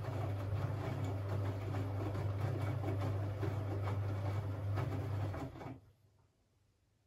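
Siemens Siwamat 6143 washing machine running, with a steady low motor hum under a rushing, rattling noise. The sound cuts off abruptly about six seconds in, leaving near silence.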